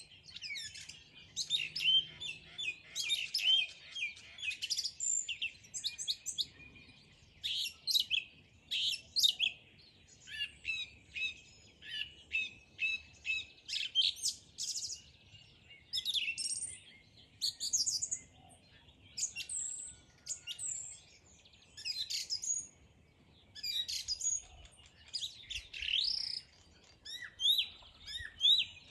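Songbirds singing and chirping: a busy run of quick, high chirps and short sweeping notes in phrases a few seconds long, with brief pauses between them.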